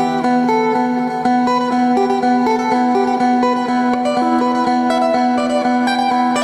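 Isan phin (Thai plucked lute) playing a quick melody of plucked notes over a steady held drone note.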